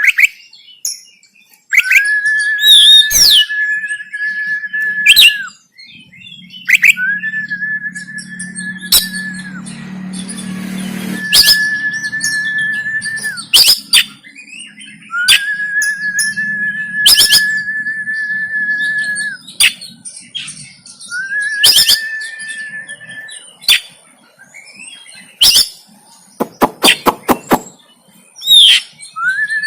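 Oriental magpie-robin repeatedly holding long, flat whistled notes of two to three seconds each, broken by sharp, loud clicking calls. A low hum sits under the middle, and a quick rattle of clicks comes near the end.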